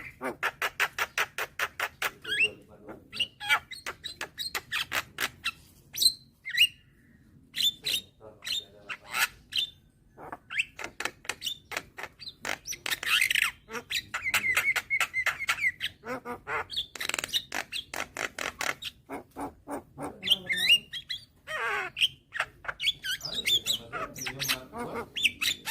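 Javan myna (jalak kebo) calling: rapid trains of harsh clicking chatter broken by short whistled notes, with a brief held whistle about halfway through.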